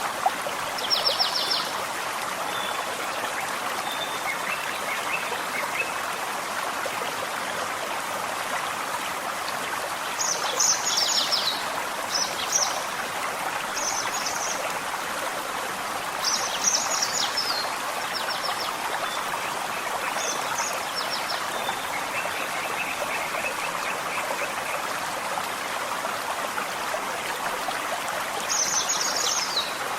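Forest stream flowing steadily, with songbirds singing short, high phrases every few seconds and a softer trill now and then.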